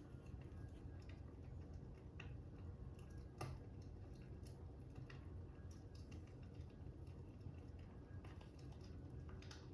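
Faint crackling fire: irregular small snaps and pops over a low steady rumble, with one louder pop about three and a half seconds in.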